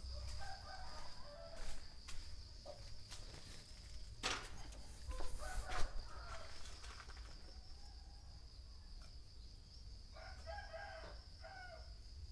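A rooster crowing in the background a few times, over a steady high-pitched insect drone. There are a couple of sharp knocks about four and six seconds in.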